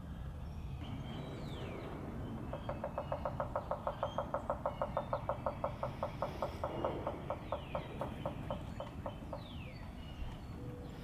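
A woodpecker pecking into a hollow branch, excavating a nest hole: a steady run of hollow knocks, about six a second, starting a couple of seconds in and slowing slightly before stopping near the end. Faint chirps of other birds are heard over it.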